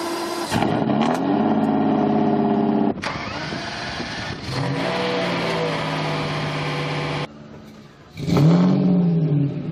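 Lamborghini Diablo V12 engine idling and being revved, with short blips where the pitch climbs and falls back; the sound changes abruptly a few times, as between separate recordings. Near the end one sharp, loud rev rises and drops away.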